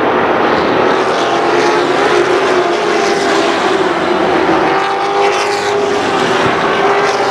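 Race truck engines running together on the track, a loud continuous drone with several engine pitches slowly shifting as the trucks run past.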